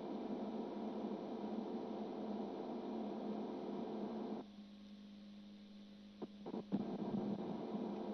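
A steady hum with a constant tone, dropping quieter about four and a half seconds in and returning near the end, with a couple of faint clicks.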